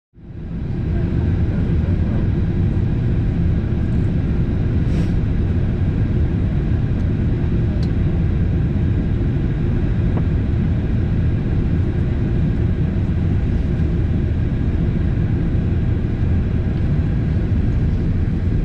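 Steady low rumble of a Boeing 737-800's engines and airflow in flight, heard from inside the passenger cabin, fading in over the first second.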